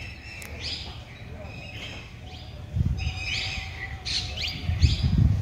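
Birds chirping in short repeated calls, with two louder bursts of low rumble, about three seconds in and near the end.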